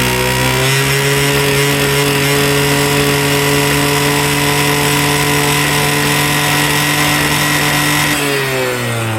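Honda Live Dio SR scooter's 50cc two-stroke engine held at raised revs, running steadily, then the throttle is let go about eight seconds in and the revs fall back toward idle.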